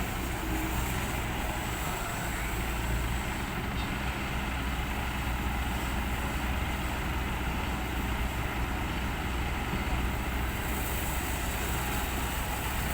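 Heavy diesel engines running steadily: an excavator working as it loads dirt into a ten-wheel dump truck, with no distinct knocks or impacts.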